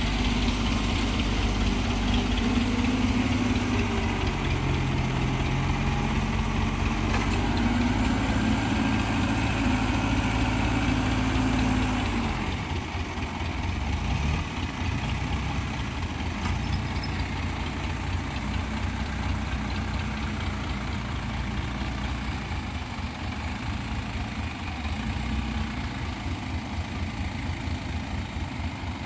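Heavy vehicle engine running at raised revs, its pitch shifting. About twelve seconds in it drops to a lower, steadier idle.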